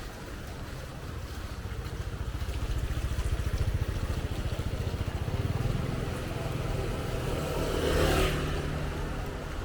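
A motorcycle engine running close by, with a steady low putter that grows louder over the first few seconds. About eight seconds in there is a brief hiss.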